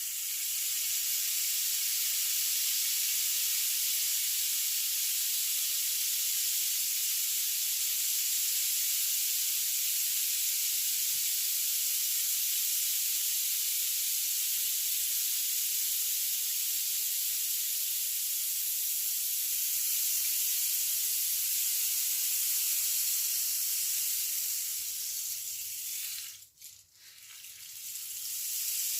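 A 1.2 m rain stick: a steady high rushing hiss of its filling trickling down inside. It fades out about 26 seconds in, and after a brief pause starts again near the end.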